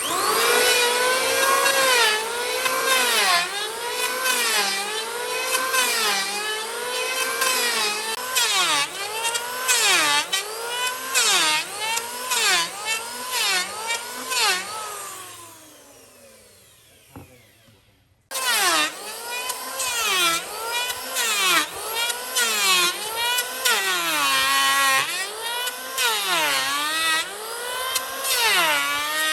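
A handheld electric power tool is working wood, its motor pitch dropping under load and recovering in repeated strokes about once a second. Around the middle it winds down to a stop with falling pitch, then starts again and carries on with the same loaded strokes.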